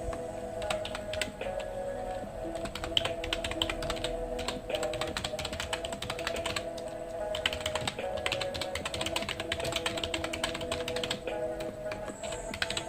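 Fast typing on a computer keyboard: runs of rapid key clicks broken by brief pauses, the last pause a little before the end. Soft background music with sustained notes plays underneath.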